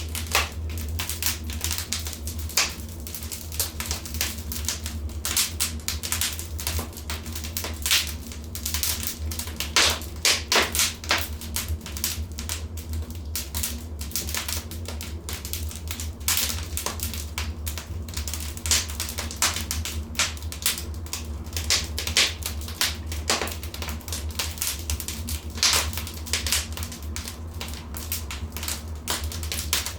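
Wood fire crackling in a fireplace: dense, irregular sharp snaps and pops, several a second, over a steady low rumble.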